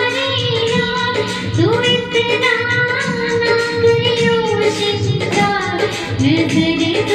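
A girl singing a slow Hindi bhajan melody in long held notes that slide between pitches, with a rhythmic backing underneath.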